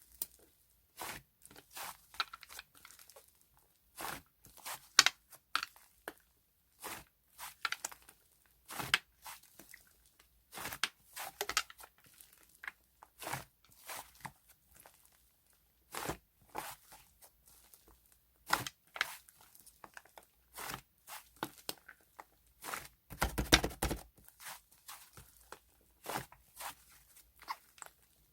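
Hands handling food packaging and kitchen items: short, irregular crinkles, taps and tearing sounds, about one or two a second, with a longer burst of rustling and crunching a little past two thirds of the way through.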